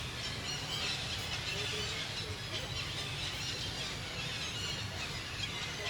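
Monkey squealing in short high-pitched bursts, over a steady low background hum.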